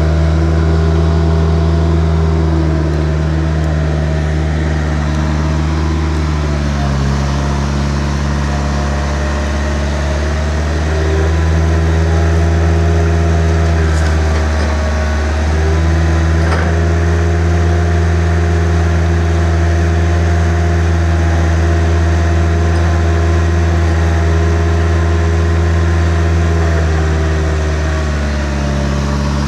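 Engine running steadily at a low, even speed, its pitch dropping and picking back up a few times as it changes speed.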